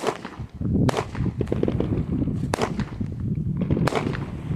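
Consumer fireworks going off: four sharp bangs about a second apart, with low rumbling and crackle in between.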